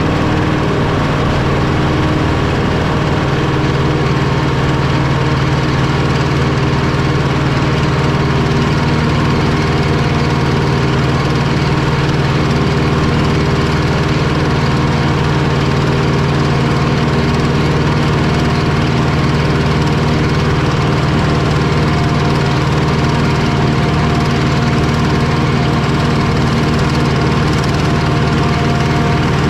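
Claas 695 self-propelled forage harvester running steadily while chopping corn for silage: a loud, even machine drone with several steady tones.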